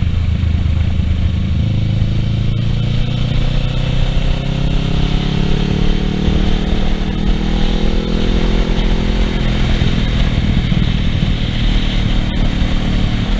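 Kawasaki Ninja 650R parallel-twin engine running on the move, its pitch rising steadily for several seconds as the bike accelerates, then holding, over a heavy low rush of wind and road noise.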